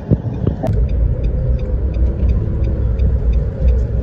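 Steady low vehicle rumble, with a faint even ticking about four times a second over it.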